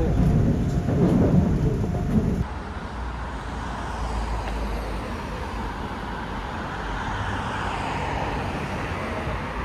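Outdoor city ambience with traffic noise: a louder low rumble for about the first two seconds, then an abrupt cut to a steadier, quieter hiss.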